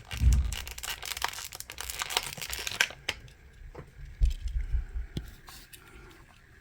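Packaging crinkling and tearing as a diecast model car is unwrapped by hand: dense crackling for about three seconds, then thinning to scattered crackles, with a couple of dull bumps.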